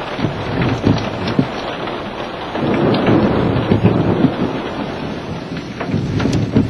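Hail and heavy rain pelting a car's body, heard from inside the cabin: a dense patter full of sharp hits, heavier for a couple of seconds from about two and a half seconds in.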